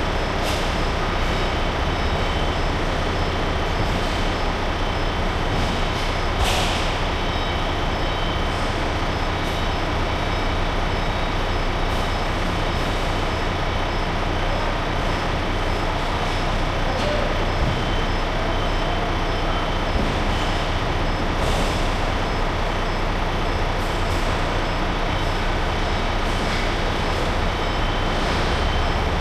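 Heavy truck's diesel engine running steadily, with a few brief clicks over it.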